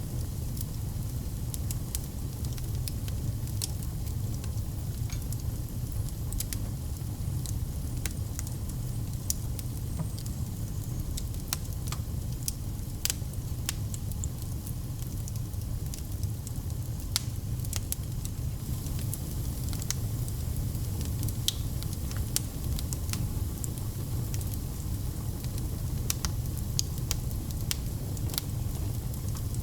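Fire burning in a fireplace: a steady low rumble with frequent irregular crackles and pops.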